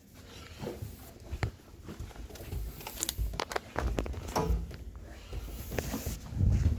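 Irregular knocks, bumps and rustling of things being handled in a small room, with a few louder thumps near the end; no steady motor hum.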